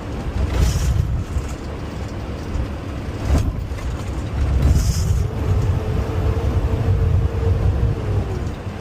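Garbage truck's diesel engine running as it drives, a heavy low rumble with a faint whine that rises and then falls away in the second half. A short click about three seconds in and a brief hiss about five seconds in.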